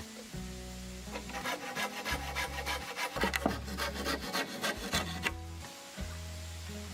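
A hand tool working wood with quick, rhythmic scraping strokes, about five a second. The strokes start about a second and a half in and stop about two seconds before the end.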